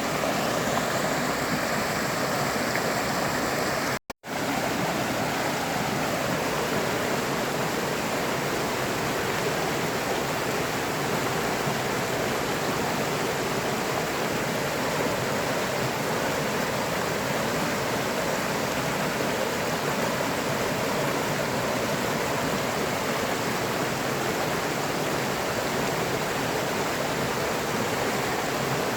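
A river flowing: a steady, even rush of water, broken by a split-second dropout to silence about four seconds in.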